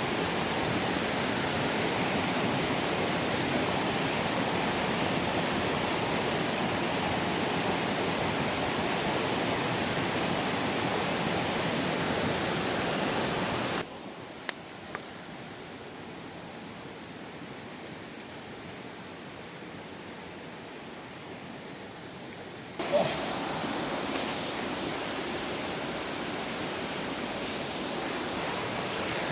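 Steady rush of a river flowing. About 14 seconds in it drops away to a much quieter background with a couple of sharp clicks, and the rushing comes back about nine seconds later.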